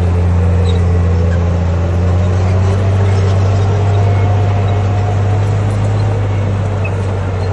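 Diesel engine of a Komatsu D58P crawler bulldozer running steadily, a loud, even low drone, with faint higher tones wavering above it.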